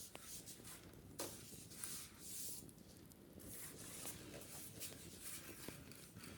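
Quiet scratching and rubbing on a wicker basket during cleaning, a few short scratchy strokes mixed with small irregular clicks.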